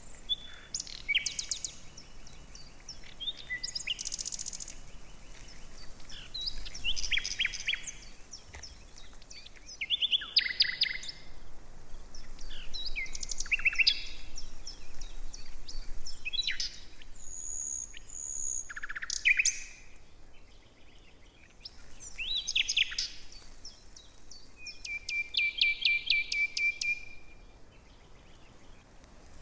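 Songbirds singing in short, varied chirping and whistled phrases, with a rapid trill about two-thirds of the way through.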